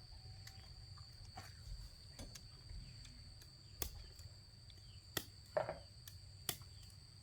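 Insects droning steadily at a high pitch, with a few sharp clicks or snaps spaced about a second apart in the second half.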